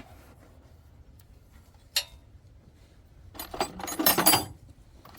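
Metal hand tools clinking: one sharp clink about two seconds in, then about a second of rattling metal on metal near the end, as sockets and wrenches are handled while a 14 mm size is picked for the starter bolts.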